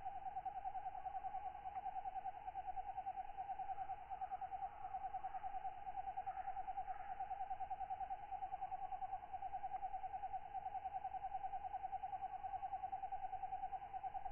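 Katydid calling in a steady, fast pulsing trill on one pitch, about six or seven pulses a second, with faint other night sounds behind it.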